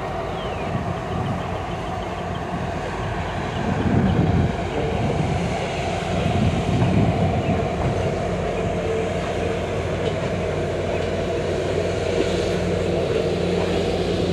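Passenger railroad cars rolling over the track, wheels clattering, with a steady low hum under it. The clatter swells louder about 4 and 7 seconds in.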